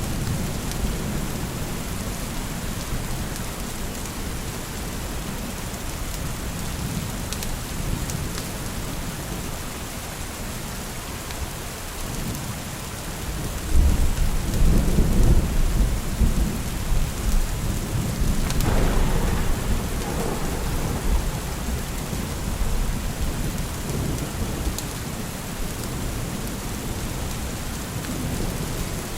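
Steady rain falling, with a rolling thunder rumble that comes in about halfway through and lasts several seconds, swelling into a sharper peal partway through before fading back into the rain.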